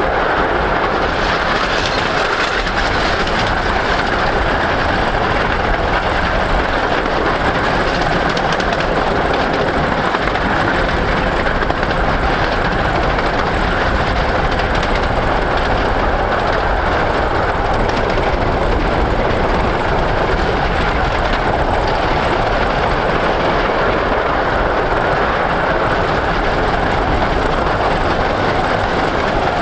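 Train of the 15-inch gauge Romney, Hythe & Dymchurch Railway, hauled by No.5 Hercules, running steadily along the line: a continuous, even rumble of wheels on rail.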